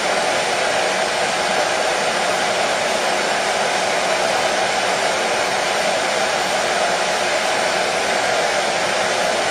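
Hair dryer running: a steady, even whooshing hiss.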